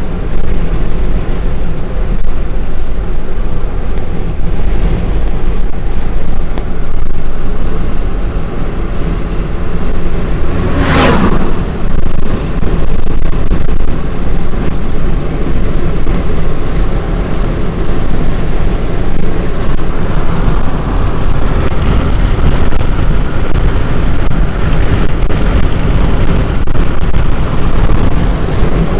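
Car driving at road speed with a window rolled down: loud, steady wind and road noise in the cabin, with one brief sharp whoosh about eleven seconds in.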